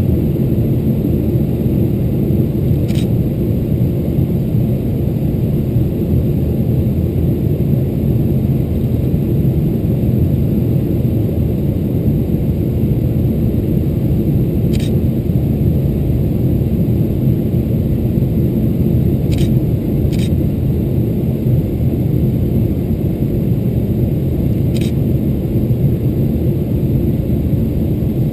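Steady low roar of engine and airflow noise inside the cabin of a Boeing 777-300ER with GE90 engines, descending on approach. A few faint ticks are heard over it.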